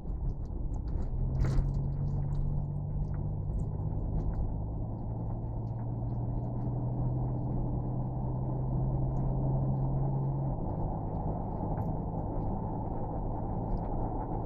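Steady low rumble and hum of a running engine. One of its tones drops out about ten seconds in, and faint light ticks sound over it.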